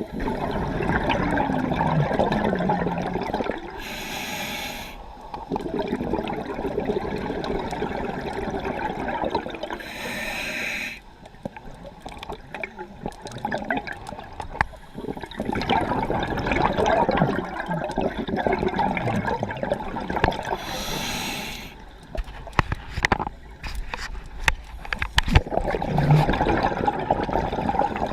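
Scuba diver breathing underwater through a regulator. A short hiss of inhalation through the demand valve comes three times. Each is followed by a long rush of exhaled bubbles lasting several seconds.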